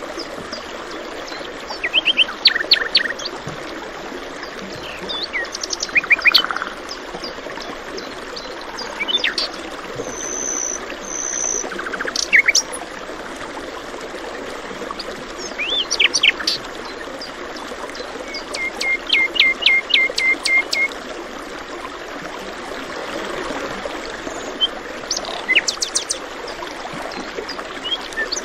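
Songbirds chirping and trilling in short repeated phrases over the steady rush of running water. Several different calls come and go, including a quick run of sharp notes about two-thirds of the way through.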